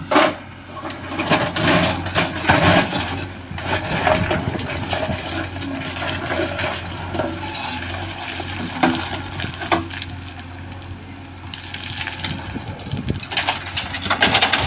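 Loose stones clattering and pouring as a load is dumped, over a diesel engine running steadily.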